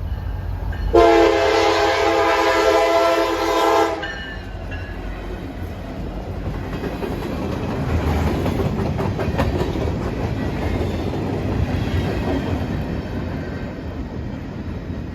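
Diesel locomotive air horn sounding one loud, steady chord for about three seconds, starting about a second in. Then the NYS&W freight's two EMD SD70M-2 locomotives and four gondola cars roll past with an engine rumble and wheels clicking over the rail joints.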